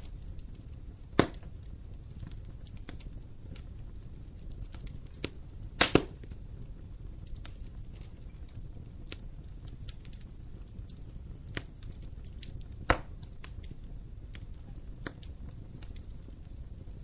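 Wood fire burning in an open fireplace: a low steady rumble of the flames with frequent small crackles and three loud sharp pops, about a second in, at the middle as a quick double, and near the end.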